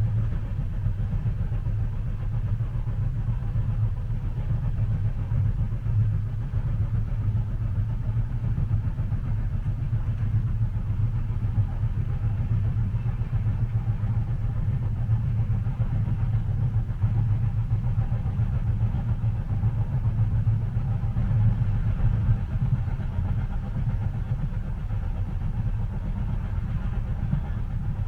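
Steady low rumble of a train heard from inside the passenger cabin, an even drone without distinct rail clacks.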